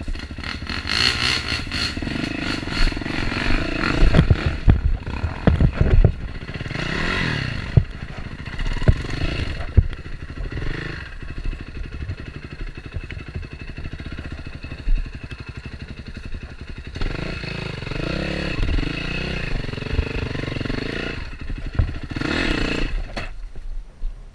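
Dirt bike engine running on a trail, its pitch rising and falling as the throttle is worked, with sharp knocks and clatter from the bike over rough ground.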